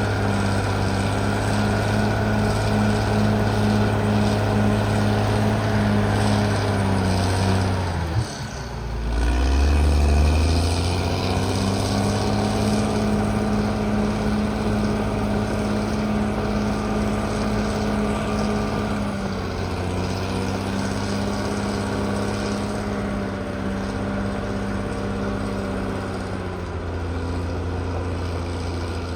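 Caterpillar D6R XL bulldozer's diesel engine running steadily. About eight seconds in, its note drops sharply and climbs back over about two seconds, as the engine takes load and recovers.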